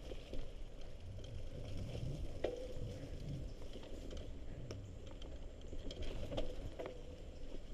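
Mountain bike rolling over a muddy, debris-strewn trail: scattered clicks and rattles from the tyres and frame over a low rumble, with a couple of brief squeaks.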